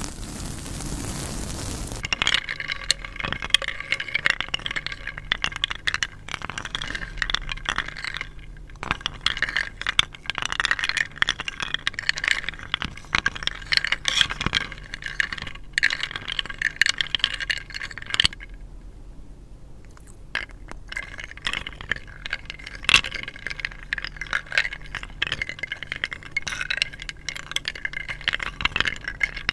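Stones rubbed and knocked together: dense small scrapes and clicks, pausing for about two seconds past the middle. A steady hiss fills the first couple of seconds.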